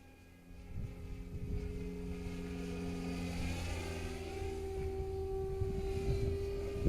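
Goosky RS5 electric RC helicopter spooling up: the motor's whine rises slowly in pitch and the rotor thrum grows steadily louder. Wind rumbles against the microphone underneath.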